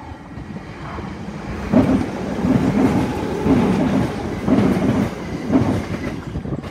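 Electric multiple-unit passenger train passing close at speed, its wheels clattering in a rhythm of beats over the junction's track. It grows suddenly louder about two seconds in as it draws level, then eases slightly near the end.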